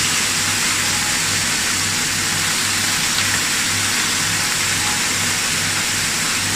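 Steady sizzling of food cooking on a hot grill, an even hiss that doesn't change, with a faint low hum underneath.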